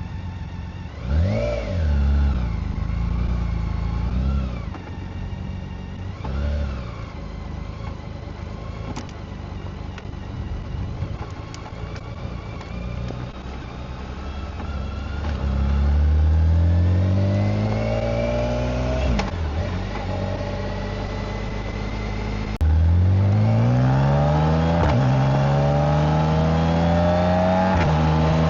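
BMW K1600GT's inline-six engine and exhaust: three short throttle blips at idle, then the bike pulls away with the revs climbing through the gears, the pitch rising in steps.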